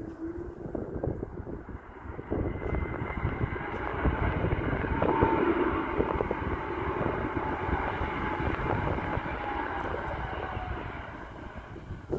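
Jet airliner's engines passing by: the noise builds over a few seconds, peaks, then fades, with a whine that slowly falls in pitch as it goes past.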